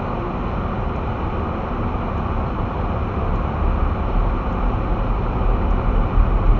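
Steady road and engine noise heard inside a moving vehicle's cabin, a low rumble that grows slightly louder.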